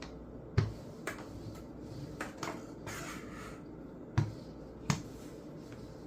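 Kitchen handling noises: a few sharp knocks and taps against a counter, the loudest about half a second in and two more around four and five seconds in, with a short rustle in between.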